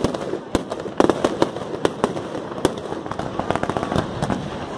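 Fireworks going off: a rapid, irregular run of sharp bangs and crackles over a continuous rumble, with a louder cluster of reports about a second in.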